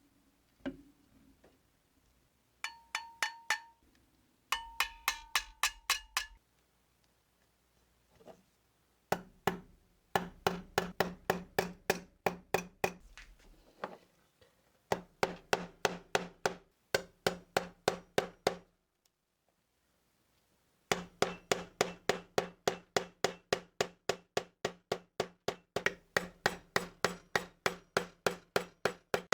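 Hammer tapping on metal in quick, even runs of about three to four blows a second, each blow ringing briefly, with short pauses between runs.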